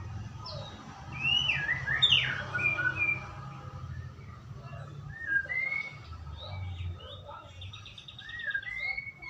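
White-rumped shama (murai batu) singing a string of clear, whistled notes that slide up and down, breaking into a fast rattling trill near the end, over a steady low hum.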